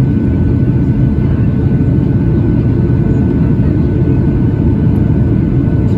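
Steady cabin roar of a Boeing 737-800 in descent: the CFM56-7B engines and the airflow over the fuselage heard from inside the passenger cabin. A faint steady high tone sits above the deep, even rumble.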